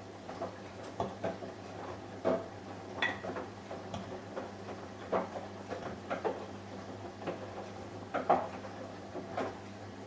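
Samsung Eco Bubble washing machine turning its drum through a wash, the load tumbling with irregular clunks and clinks against the drum over a steady low hum.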